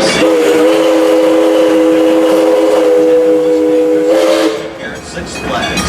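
Steam locomotive's chime whistle blowing one long blast, a chord of several notes that cuts off about four and a half seconds in.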